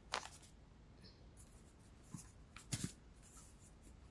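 Faint rustles and light taps of tarot cards being handled, a few brief scrapes spread apart over a quiet room.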